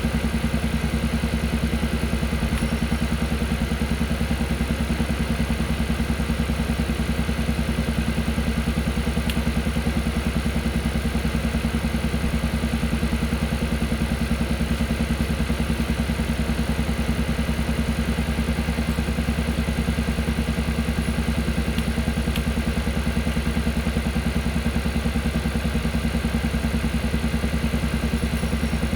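Kia Carnival Hybrid engine running steadily with a fast, even, repeating 'peok-peok-peok' puffing beat, the engine noise the owner is recording as a complaint.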